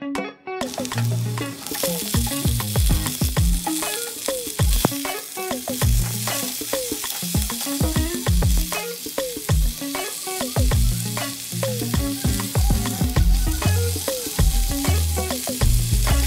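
Food sizzling as it fries in hot oil in a pan, starting suddenly about half a second in, with background music playing underneath.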